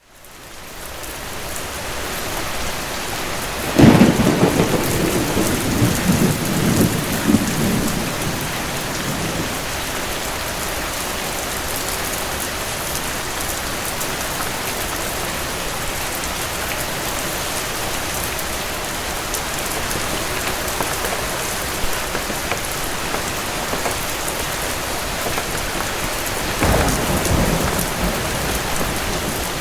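Steady heavy rain fading in at the start, with a sudden thunderclap about four seconds in that rolls on for several seconds, and a second, weaker roll of thunder near the end.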